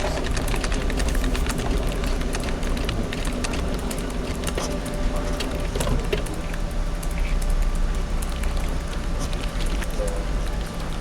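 Office background ambience: a steady low hum and noise bed with frequent small clicks scattered through it.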